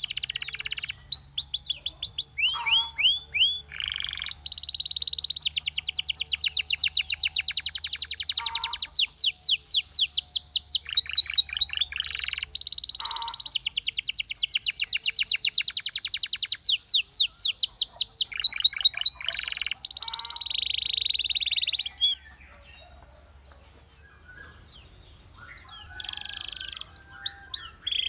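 Canary singing a long song of fast trills and rolls of rapidly repeated high notes, one run after another. It breaks off for a few seconds about three-quarters of the way through, then starts again.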